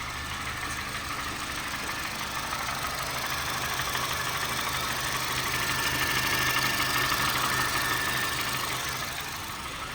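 Honda Fit's four-cylinder engine idling with a fast, rough knocking tick, growing louder in the middle, with a thin high whine rising over it for a few seconds. The owner fears rod knock but doubts it, since the noise is not there on acceleration or at shut-off.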